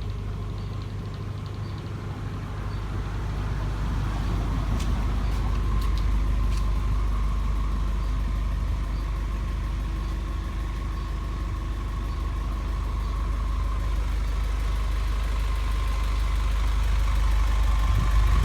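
Box truck engine idling steadily: a low rumble with a faint steady whine above it, growing a little louder a few seconds in.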